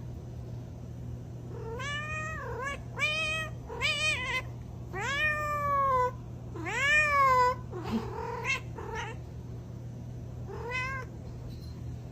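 A domestic cat meowing over and over, about seven meows, each rising and then falling in pitch. The two in the middle are longer and louder, and one last meow comes near the end.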